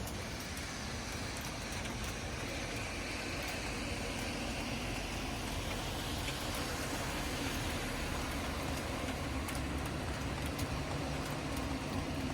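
Steady rain falling outdoors, an even hiss with scattered faint drop ticks, over a low rumble that grows a little stronger in the second half.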